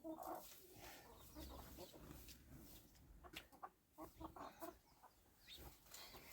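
A hen clucking faintly in short, scattered notes, with a few soft clicks.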